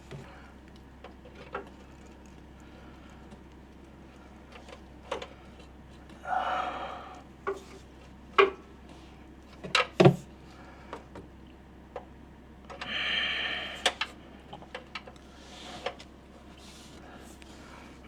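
Scattered metallic clicks and knocks of a breaker bar and 14 mm socket working on a stuck oil drain bolt, with two louder knocks close together about halfway through. Twice there is a longer, rougher noise of a second or so.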